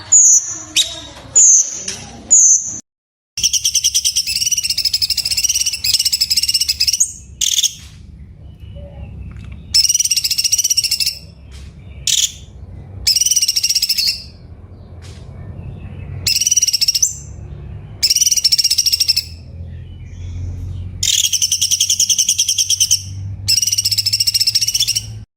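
Cucak cungkok bird singing: a few short, high descending notes, then loud, rapid rattling trill phrases repeated in bouts of one to three seconds with short pauses between. The song stops abruptly near the end.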